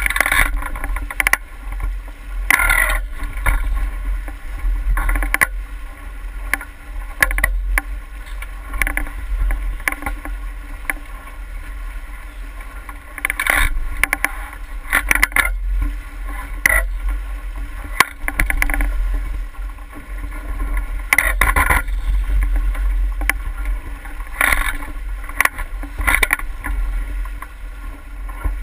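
Boat moving through water: irregular splashing and slapping of water against the hull, over a steady deep rumble of wind on the microphone.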